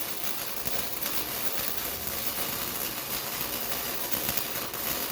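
125-amp wire-feed welder laying a bead on a steel test piece, a steady crackling sizzle that cuts off suddenly near the end as the trigger is released. This is a second test pass with the heat turned down a little after the first bead ran a little hot.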